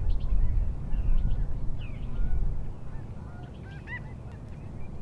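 Birds calling repeatedly in short gliding calls, over a low rumble that fades after about three seconds.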